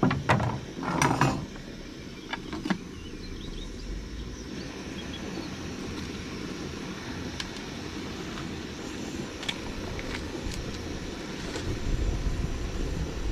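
Portable gas camp stove burner running with a steady low rushing noise under a pot of water coming to the boil. A few knocks and clicks of handling come in the first three seconds.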